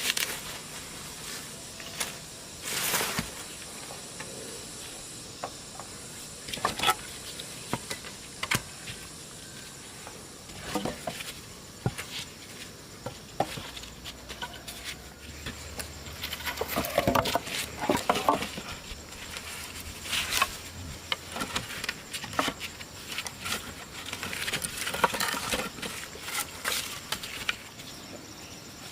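Irregular footsteps crunching through dry forest leaf litter and twigs, with scattered crackles, busiest in the middle and near the end. A steady high insect drone runs underneath.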